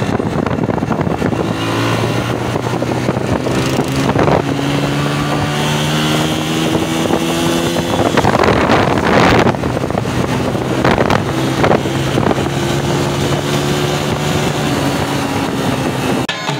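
Honda single-cylinder motorcycle engine running while riding, its note rising slowly as the bike gathers speed, with wind on the microphone. A louder rush of wind noise comes about eight seconds in, covering the engine for a moment.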